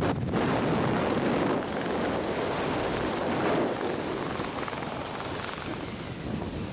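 Steady rushing wind noise buffeting the microphone, with no distinct tones or separate events.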